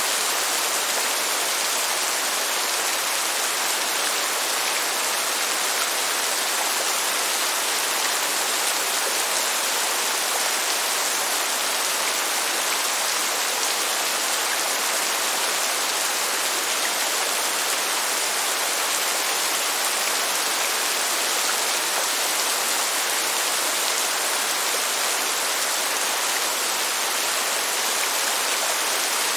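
Steady rain falling, a continuous even hiss of drops with no thunder heard.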